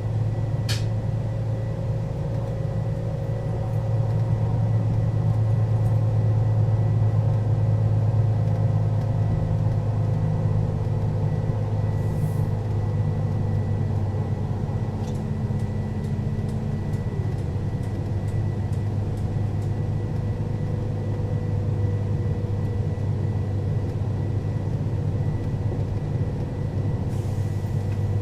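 Mercedes-Benz O 530 Citaro city bus under way, its engine running with a steady low rumble that grows louder about four seconds in and eases off again after about nine seconds. A faint steady high whine runs under it, and a few faint ticks come in the second half.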